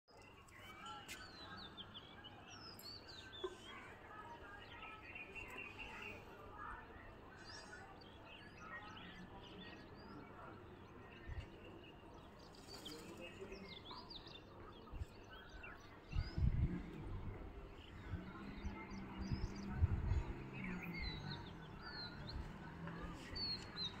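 Small birds chirping and twittering in the background, short quick calls scattered throughout. About two-thirds of the way in, low voices and a few knocks come in, louder than the chirping.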